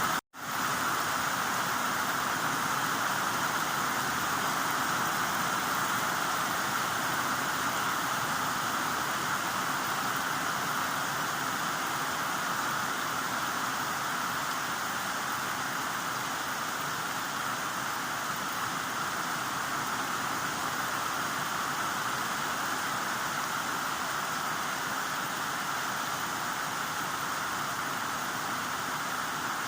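Heavy rain falling steadily as a continuous, even hiss, with a momentary dropout to silence just after the start.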